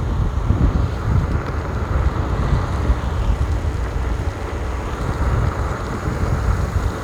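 Wind buffeting the phone's microphone on a moving electric scooter: a loud, gusty low rumble with a steady hiss of road and rain noise over it.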